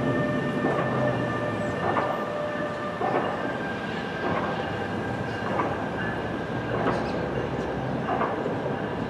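NJ Transit ALP-46-series electric locomotive drawing a train of coaches slowly into a station: a steady rumble of wheels on the rails with a thin, steady high whine and faint clicks about once a second.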